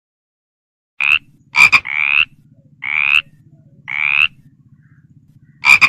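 Frog croaking: about six short croaks, roughly one a second, starting about a second in, over a low continuous rattle.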